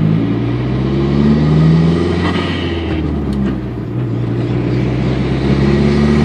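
Car engine heard from inside the cabin, accelerating through the gears: its pitch climbs, drops back about two seconds in, and climbs again near the end. It runs without the hesitation or shaking that was being checked for.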